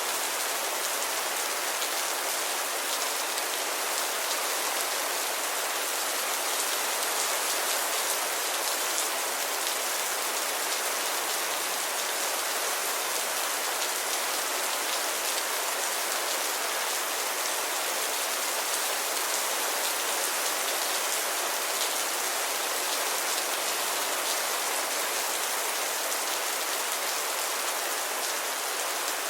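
Steady rainfall, a continuous even hiss of many drops, with little low rumble.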